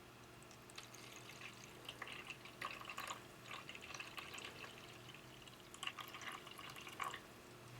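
Vinegar poured into a humidifier's removable plastic tray: faint trickling and splashing in two spells, about two seconds in and again near the end.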